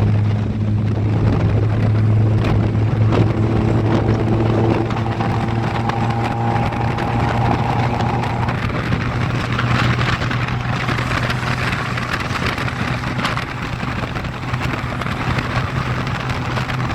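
A car running steadily: a low, even engine drone with a hiss over it that grows stronger about halfway through.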